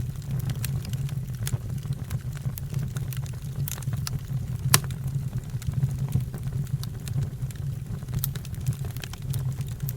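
Fire crackling: irregular sharp pops and snaps over a steady low rumble, with one louder pop about halfway through.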